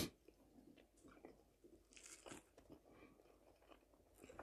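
Faint chewing of a mouthful of omelette, with soft scattered mouth clicks and smacks and a slightly louder one about two seconds in.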